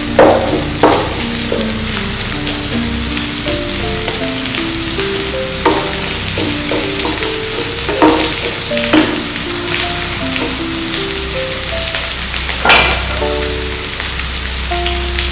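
Garlic, lemongrass, curry leaves and pandan leaves sizzling in hot coconut oil in a non-stick pan as they are stir-fried, with a wooden spoon knocking against the pan several times. A soft background melody plays underneath.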